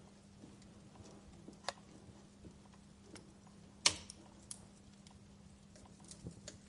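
Wood fire crackling in a fireplace: sparse small ticks and pops, with one louder pop about four seconds in.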